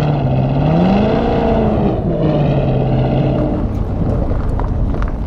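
V8 muscle car engine revved hard and held at high revs, climbing higher about a second in, settling back down, then easing off after about three and a half seconds.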